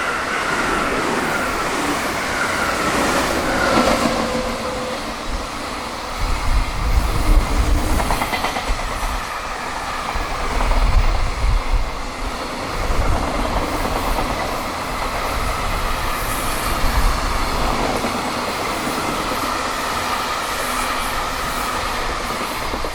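JR Freight EF200 electric locomotive and its container freight train passing at high speed, with wheels clattering over the rail joints. A motor whine steps in pitch in the first few seconds, and heavy low rumbles come from about 6 to 13 seconds in.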